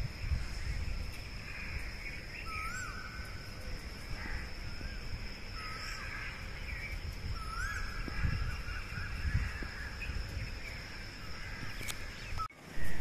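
Asian koel calling from a distance: three short rising calls a few seconds apart, with other birds faintly behind, over a steady thin high-pitched tone and a low wind rumble on the microphone.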